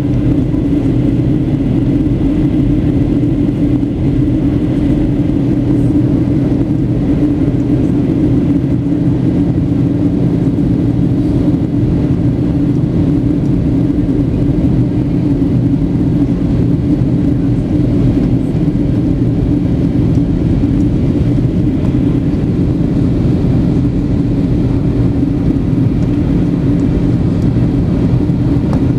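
Boeing 737-800 in flight on approach: a steady rumble of its CFM56 engines and airflow, with a constant low hum, level and unchanging.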